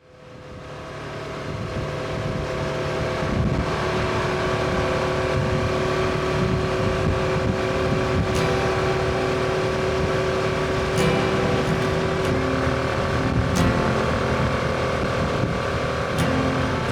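Honda Transalp motorcycle engine running on the move, with wind noise on the microphone, fading in over the first two seconds and then holding steady. A few short clicks come through in the second half.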